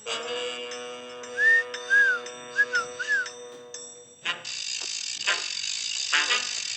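Cartoon soundtrack: a held musical chord with five short whistled chirps over it, then, about four seconds in, a rattling noise that pulses about twice a second.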